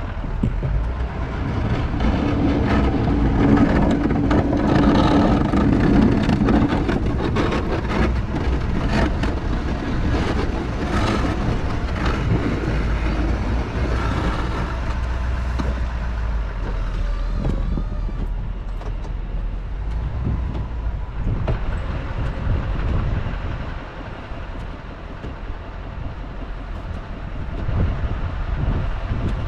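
Truck engine running as it drives, a steady low rumble with the engine note changing over the first half and easing off about three-quarters of the way through.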